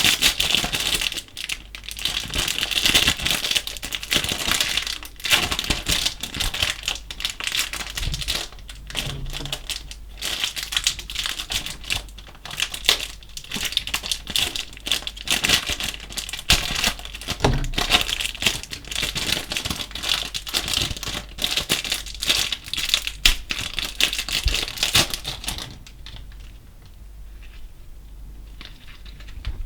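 Slime with small coloured beads mixed in being squished and kneaded by hand: a dense, sticky crackling with many small pops and clicks, which falls much quieter near the end.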